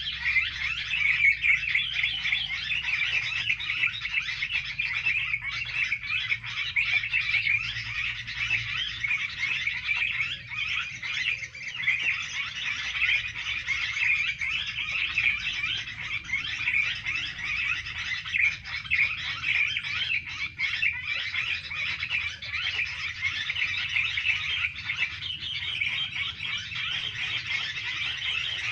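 Dense, continuous chattering of many small songbirds, rapid overlapping chirps with no pause.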